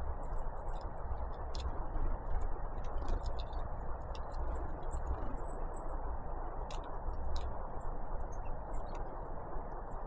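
Small songbirds, great tits and blue tits, feeding: scattered sharp ticks and short, very high-pitched chirps throughout, over a steady low rushing noise.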